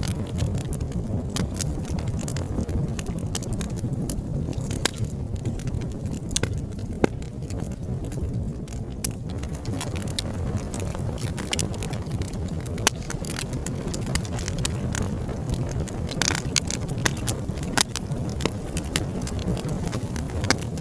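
Wood fire burning with a steady low rumble of flames and frequent sharp, irregular crackles and pops.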